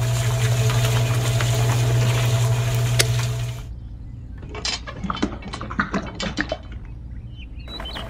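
Small electric motor of a miniature DIY concrete mixer running with a steady hum as the drum turns, cutting off a little before halfway. Then a quieter run of small scrapes and clicks as the tipped drum empties wet mortar into a toy metal wheelbarrow.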